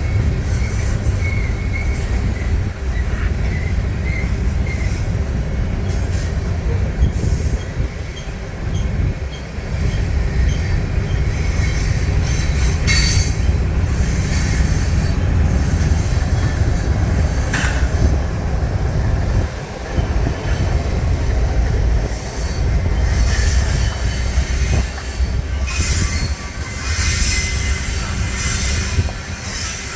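Freight train cars rolling past on the rails with a steady low rumble, and steel wheels squealing faintly in the first few seconds and again briefly midway.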